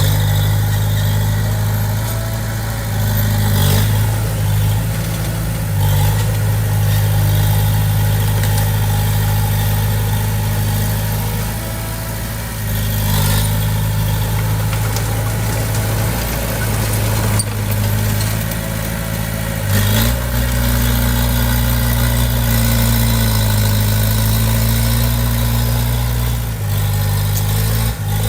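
Komatsu D20P crawler bulldozer's diesel engine running steadily while working, with a few scattered knocks and the engine note shifting slightly about two-thirds of the way through.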